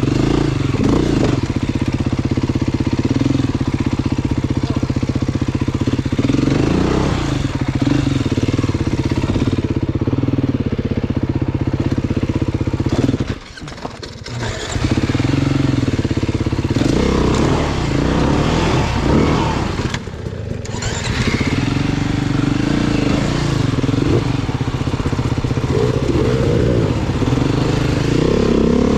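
Off-road motorcycle engine running at low revs, the revs rising and falling with the throttle. About halfway through it drops away for about a second, then picks up again.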